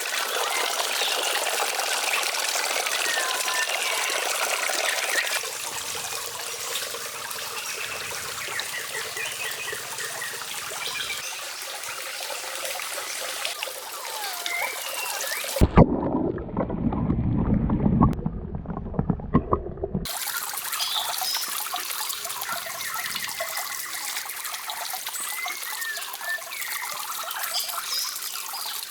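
Water running and trickling, with short high chirping calls over it. Midway, for a few seconds, it turns muffled with deep rumbling and sharp knocks.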